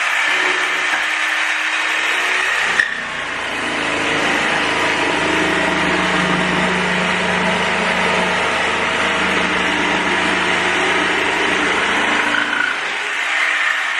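Jigsaw cutting a cork floor plank, running steadily throughout, with a brief click and a shift in its tone about three seconds in.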